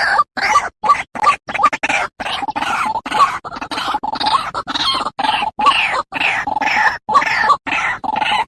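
White-breasted waterhen (ruak-ruak) calling: a noisy, rapid run of repeated harsh call notes, about three a second, with short clean breaks between them.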